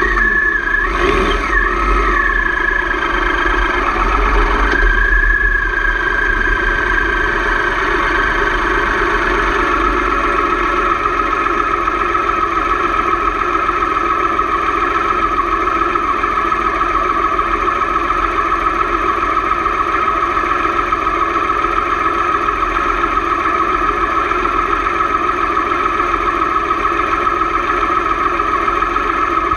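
Motorcycle engine running, its pitch shifting a few times in the first seconds and then holding steady.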